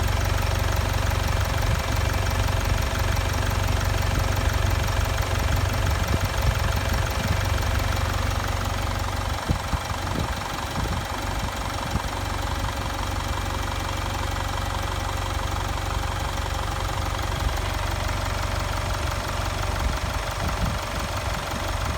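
Jaguar XE's 2.0-litre Ingenium four-cylinder turbodiesel idling steadily with an even, fast clatter, a little quieter from about ten seconds in. This is the normal sound of a healthy engine at 2600 km.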